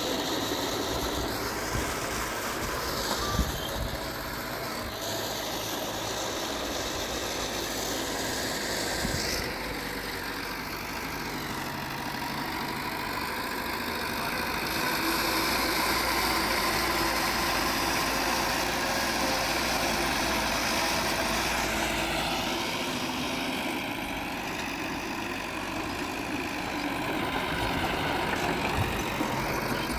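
Heavy diesel engine of earthmoving machinery running steadily. It grows louder about halfway through, then eases back, with a few short knocks.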